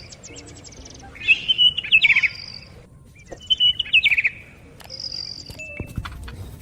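Bird song: two loud chirping, trilling phrases about two seconds apart, with high whistled notes between them.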